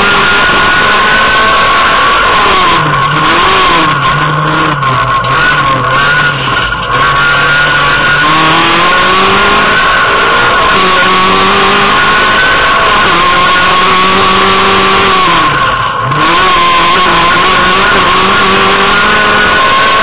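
Renault Clio Williams rally car's 2.0-litre 16-valve four-cylinder engine, heard from inside the cabin, driven hard. The revs drop and climb again several times in the first seven seconds and once more sharply near the end as it changes gear.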